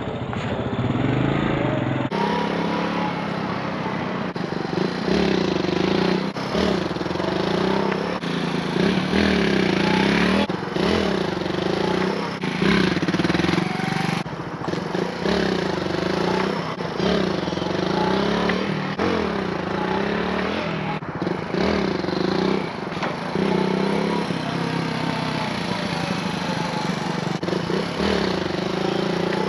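Suzuki dual-sport motorcycle engine revving up and dropping back again and again, about once every two seconds, as the throttle is opened and closed for repeated wheelie attempts.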